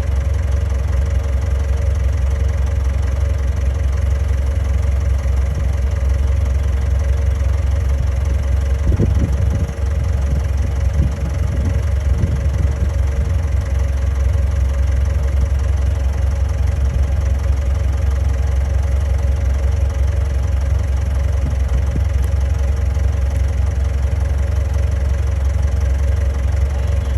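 Bulldozer's diesel engine running steadily with a deep, even drone, and a few low knocks about nine to thirteen seconds in.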